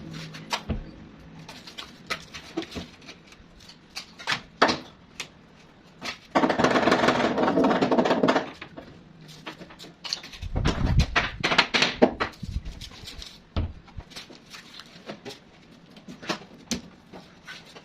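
Scattered knocks and clicks of wood and tools being handled, with a dense burst of noise lasting about two seconds, a little after six seconds in, and a run of heavier knocks a few seconds later.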